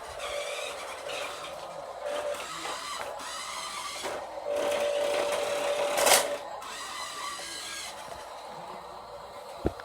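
A small motor whirring steadily, louder for a couple of seconds before a short loud burst about six seconds in, with a sharp click near the end.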